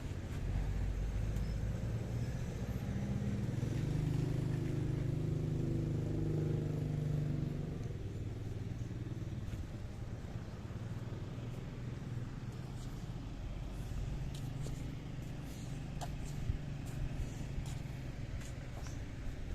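A motor vehicle's engine running close by, loudest for the first several seconds and then fading into a low background hum of traffic. A few faint clicks come near the end.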